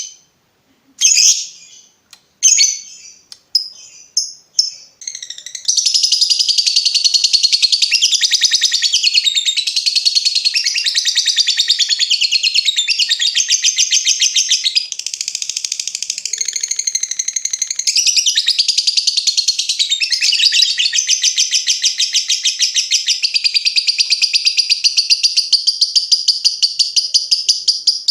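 Lovebird calling: a few short, sharp high chirps, then from about five seconds in a long, unbroken rapid chattering trill, the drawn-out 'ngekek panjang' song that lovebird keepers train for.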